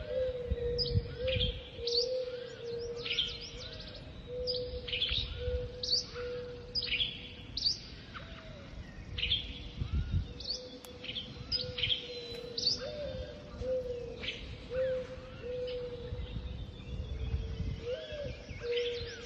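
Birds chirping and singing in many quick, sweeping notes over a low rumble of light wind, with a steady low tone running beneath.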